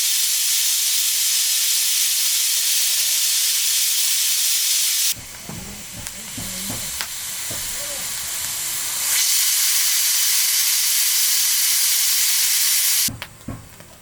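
Loud, steady hiss that cuts off abruptly about five seconds in, giving way to a few seconds of quieter sound with faint voices. The hiss then starts again just as abruptly and cuts off near the end.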